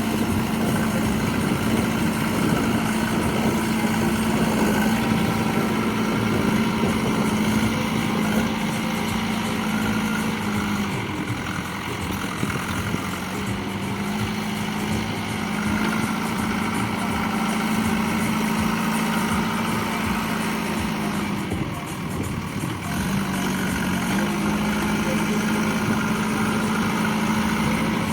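Heavy diesel engine running steadily, its tone dropping briefly twice, near the middle and about three quarters through, as the load on it changes.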